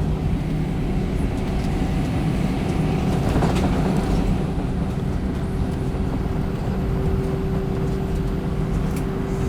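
Cabin noise in an Airbus A320 on the ground just after landing: a steady low rumble of engines and rolling. A steady hum in it grows stronger about seven seconds in.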